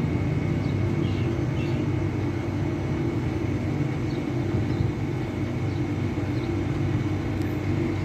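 Steady low machine hum with a constant thin high whine over it, as of air-conditioning condensing units running.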